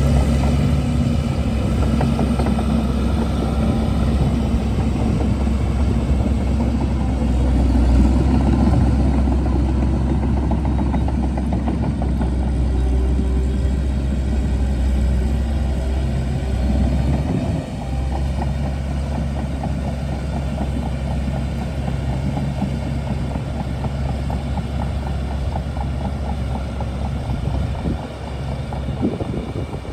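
Shantui DH17C2 bulldozer's diesel engine running steadily with a low drone, dipping briefly about two-thirds of the way through.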